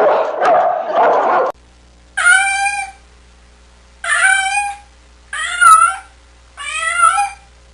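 Domestic cat meowing four times, each call drawn out and bending in pitch, spaced about a second and a half apart. Before the meows, a dense, loud stretch of animal noise cuts off abruptly about a second and a half in.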